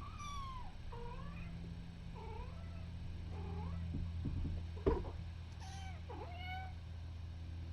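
Kittens mewing: about six short, high-pitched mews, some falling and some rising in pitch, over a steady low hum. A single sharp click about five seconds in.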